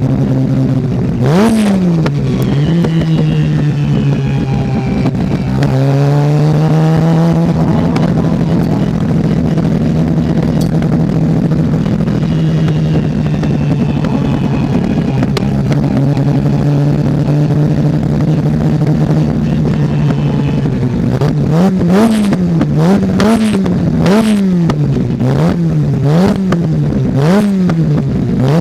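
Mazda RX-7 rotary race engine running hard at high revs, its pitch dropping and climbing again through gear changes. Near the end the revs swing quickly up and down several times, with sharp cracks among them.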